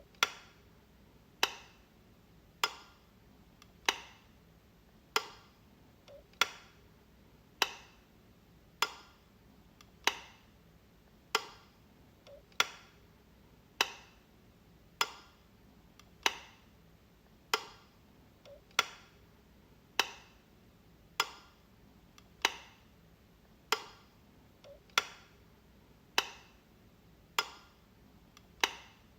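Light switch clicking, one sharp click about every second and a quarter in an even, repeating rhythm.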